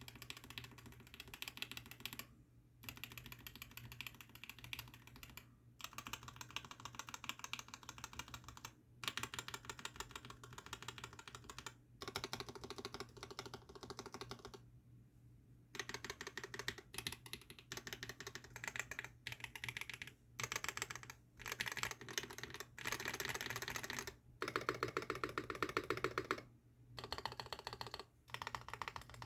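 Fast typing on a Mode80 mechanical keyboard with an aluminium plate, ThicThock Konpeitos switches and GMK Yuru keycaps, a rapid stream of keystrokes in bursts of a few seconds with short pauses between them.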